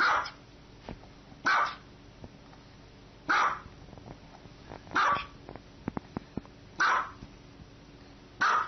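Small white dog barking up at the person in front of it: six single, sharp barks, about one every second and a half to two seconds.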